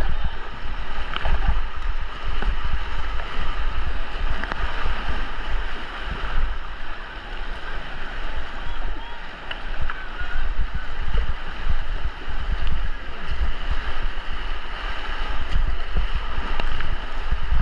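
Rushing white water on a river slalom course, with wind buffeting the microphone in a heavy, fluttering low rumble.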